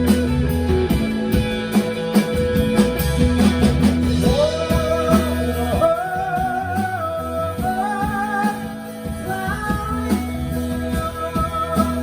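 Indie rock band playing live: a steady bass line and drum hits under electric guitar, with a sustained, gliding melody line coming in about four seconds in.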